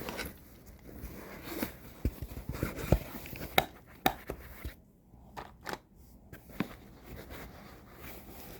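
Handling sounds of gear being rummaged: scattered sharp clicks and light knocks with rustling between them, as a water bottle from the bag is checked.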